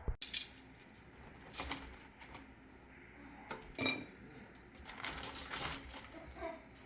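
Kitchen dishes and utensils clinking and knocking: a sharp click at the start, then a scattering of short clinks, some ringing briefly, with a spell of handling noise near the end.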